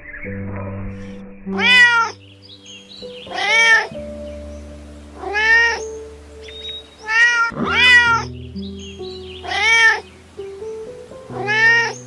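An animal giving short meow-like calls, about seven of them roughly every two seconds (two close together near the middle), each rising then falling in pitch, over soft background music with held chords.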